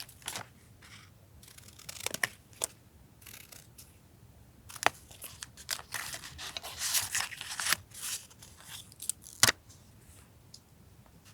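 Scissors snipping paper, with sharp snips and paper being torn and rustled, busiest in the middle of the stretch.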